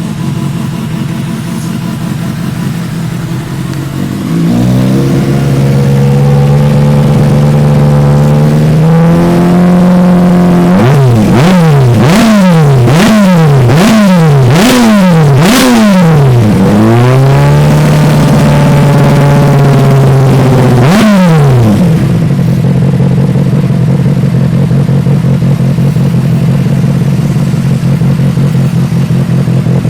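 Kawasaki Ninja ZX-6R inline-four engine breathing through a full Exan aftermarket exhaust, revved while standing. It idles, climbs about four seconds in to a held higher speed, then gives a quick series of sharp throttle blips that rise and fall. It holds a steady rev with one more blip, then drops back to idle.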